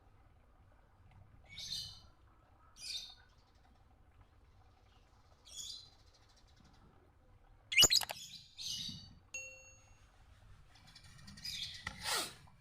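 Lovebird giving short, harsh, high chirps spaced a second or more apart, with a longer run of chirping near the end. A single sharp click comes about eight seconds in.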